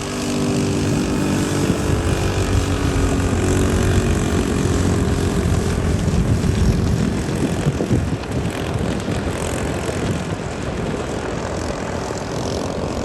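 A vehicle engine drones steadily over rushing road and wind noise. The engine's hum fades about halfway through, leaving the noise.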